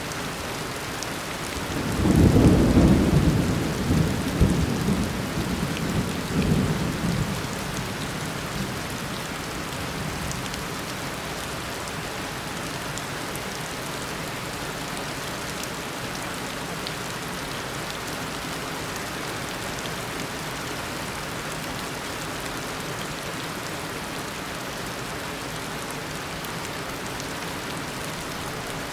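Steady heavy tropical rain with a thunderclap about two seconds in, rumbling in a few surges and fading out by about eight seconds.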